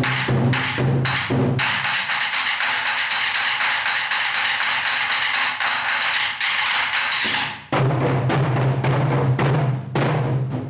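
Korean samul nori percussion ensemble playing a fast beat of drum strokes over a steady low ring. From about two seconds in, a dense high clatter takes over for some five seconds. The lower drumming then cuts back in suddenly.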